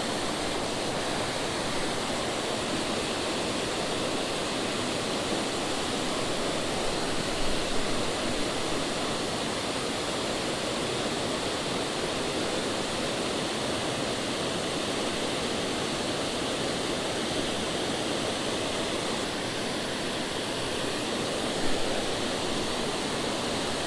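Steady rush of a creek waterfall, an even roar of falling water with no break.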